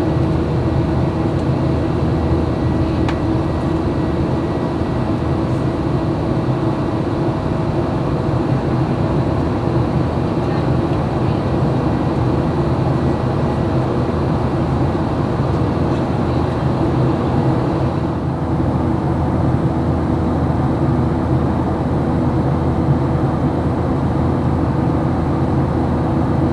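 Steady cabin noise inside a Boeing 737-800 airliner: the even roar of the engines and airflow, with a few steady hums running through it.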